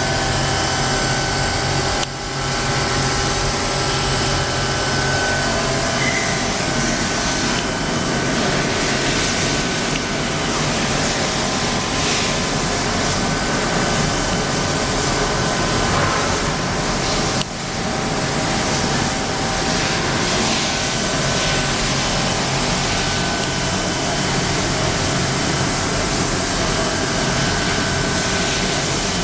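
Kiwa Triple V21i R CNC vertical machining center running: a steady mechanical whir with several steady whining tones on top, briefly dipping twice.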